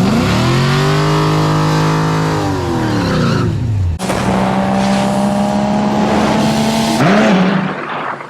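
Race cars at full throttle on a drag strip, the engine note rising, holding, then dropping off. About four seconds in it cuts to a different clip with a steady pitched note, which fades away near the end.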